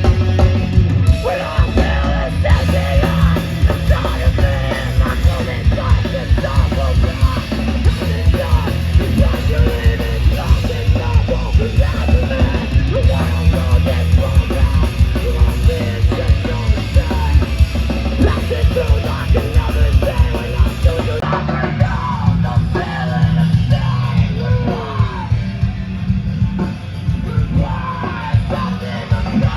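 A heavy rock band playing loudly, with dense drumming and yelled vocals.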